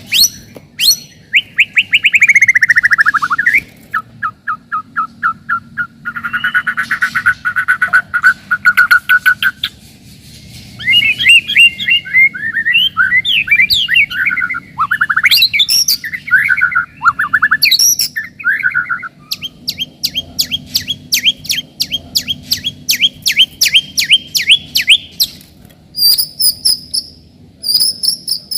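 White-rumped shama (murai batu) singing a long, varied song of rich whistles, trills and fast repeated notes, with quick rising and falling phrases mid-way and a rapid run of high notes near the end.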